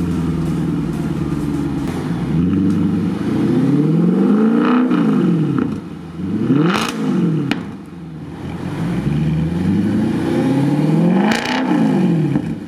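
Audi S5's V8 engine through a newly fitted Armytrix aftermarket exhaust, idling steadily and then revved three times, each rev rising and falling away.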